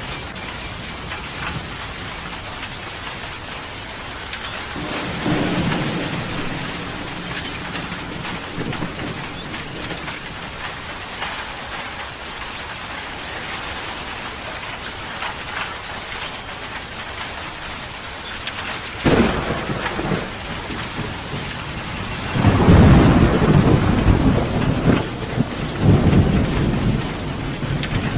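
Steady heavy rain with thunder: a soft rumble about five seconds in, a sharp crack at about nineteen seconds, then a loud, long rolling rumble near the end.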